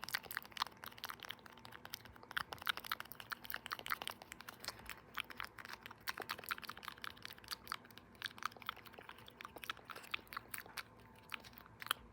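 Plastic eraser case handled close to the microphone: a dense run of crisp plastic clicks and taps, stopping shortly before the end.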